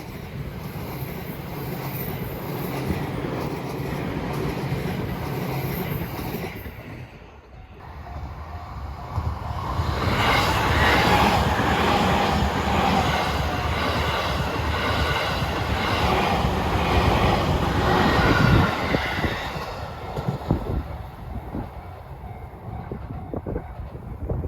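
A train passing on the Sobu Main Line. A steady rumble in the first seven seconds drops away briefly, then the passing train builds to a loud, full rush about ten seconds in that lasts roughly eight seconds before fading with a run of sharp wheel clicks.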